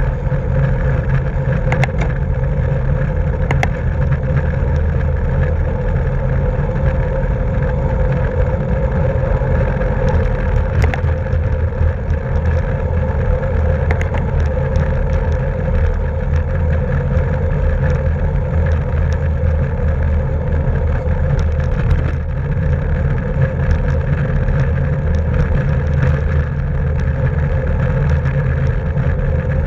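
Steady wind rumble on the microphone of a camera riding along on a racing bicycle at speed, with a steady hum over it and a few light clicks.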